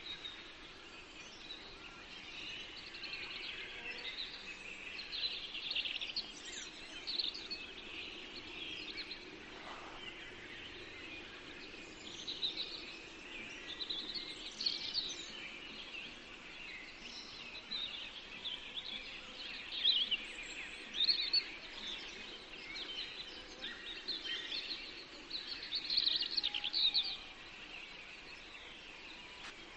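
Several small songbirds chirping and trilling in a forest, overlapping high-pitched calls over a faint steady background hiss, with louder bursts of song around the middle and near the end.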